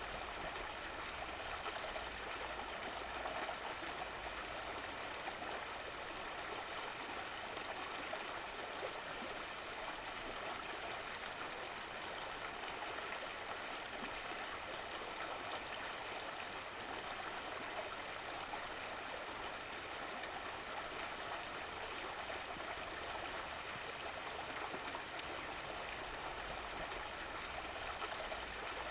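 Running water of a stream: a steady, even flow with a light trickle.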